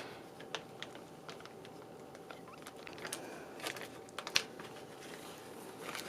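Scattered light clicks and crinkles of a plastic bag and a canvas being handled, as the painted canvas is taken out of the bag.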